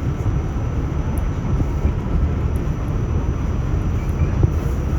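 R46 subway train running between stations on the elevated Astoria line: a steady low rumble of wheels on the rails and running gear.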